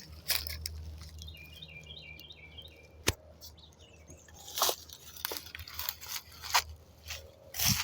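Knocking on wood: irregular sharp knocks and cracks, the sharpest about three seconds in, with a short run of bird chirps just before it.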